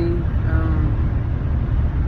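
Steady low rumble of a car, heard from inside the cabin, with a voice trailing off at the start.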